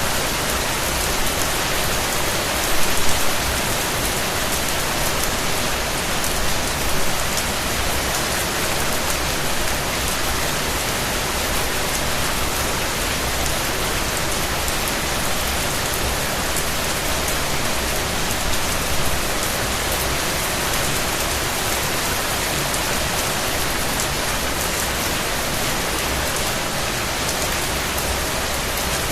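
Steady, even rain falling on a surface, a dense hiss of many drops with a few slightly louder drop splashes now and then.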